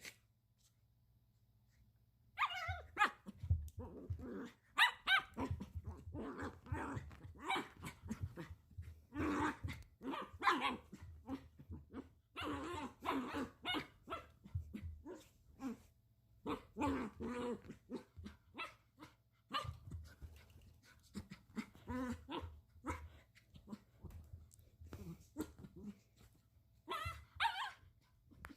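Puppy barking and growling in excited clusters of short calls while it digs at a kotatsu quilt, starting about two seconds in.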